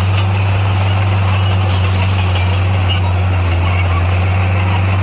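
Heavy construction machinery's diesel engine running steadily, a deep, even drone with no change in pitch or load.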